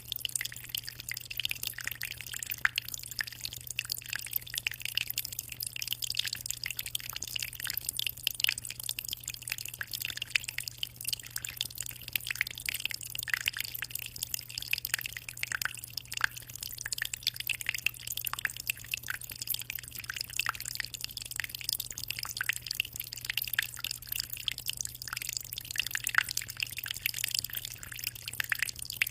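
Aquarium water trickling and splashing continuously, a dense patter of small drips and splashes with a steady low hum underneath.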